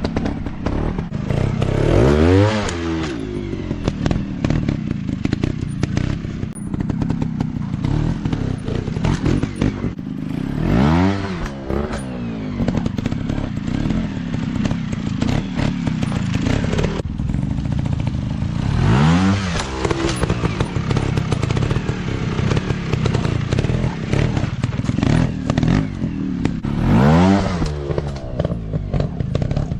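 Dirt bike engines running off-road, revving up and dropping back four times, roughly every eight seconds, over a steady engine drone with irregular knocks and clatter.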